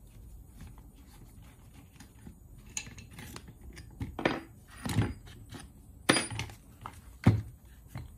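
Metal parts of a removed car starter motor clinking and knocking as they are handled and worked on with tools. The clicks are scattered and irregular, with several sharper knocks in the second half.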